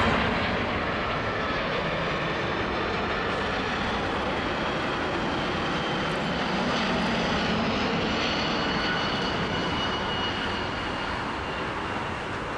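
Jet engines of a Boeing 747-400 freighter on landing approach: a steady jet noise with a faint high whine that drifts slightly lower in pitch, easing a little near the end.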